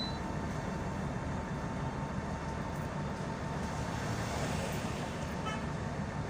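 Inside a moving city bus: steady low engine and road rumble, with a faint steady whine running through it.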